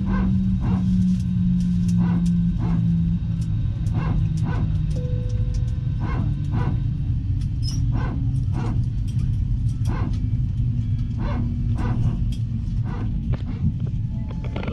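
Steady low rumble of an airliner cabin, with a regular run of sharp knocks about two a second and a low engine tone falling in pitch over the first few seconds.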